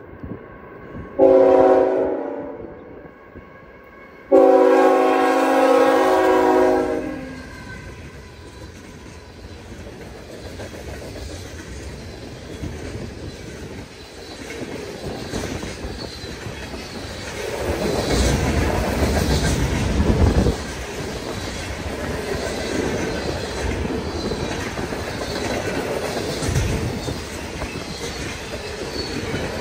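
A freight train's diesel locomotive horn sounds a short blast and then a long one. The train then rolls past: the rumble grows to its loudest about two-thirds of the way in as the locomotives go by, followed by the steady clatter of freight car wheels over the rail joints.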